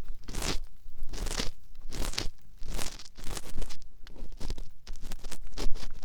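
ASMR ear cleaning: an ear pick scratching and scraping inside a binaural dummy-head microphone's ear, in short crunchy strokes about two a second.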